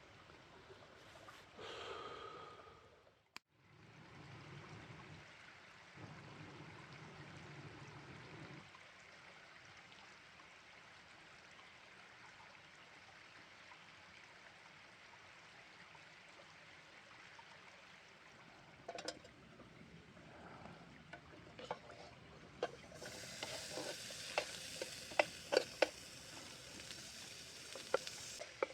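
Food sizzling in a pan, with the clicks and taps of a utensil stirring it; the sizzling grows louder and the clicks more frequent in the last few seconds.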